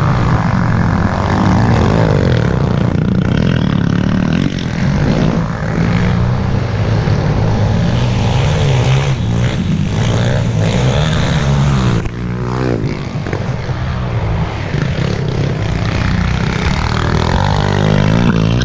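Small four-stroke pit bike engines running hard around a dirt track, the engine note rising and falling repeatedly as the riders rev and shift. The sound dips briefly about twelve seconds in.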